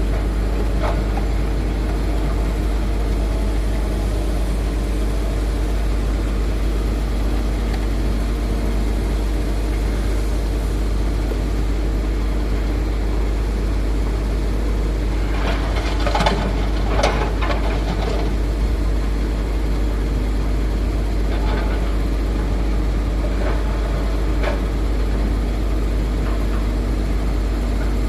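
Hitachi Zaxis 210F excavator's diesel engine running steadily, with a cluster of clanks and knocks about sixteen to eighteen seconds in and a few single knocks after that.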